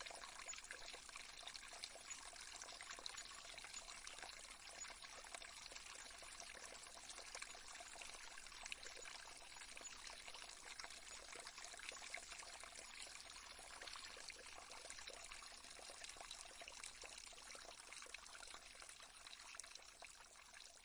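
Faint, steady trickling of flowing water, like a gentle stream, easing off slightly near the end.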